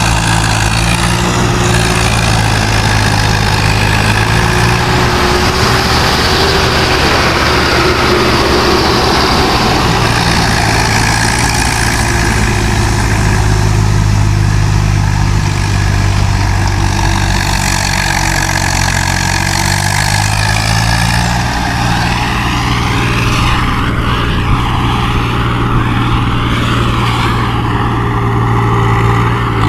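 Tractor's diesel engine running steadily and loudly, its pitch shifting slightly now and then without stopping.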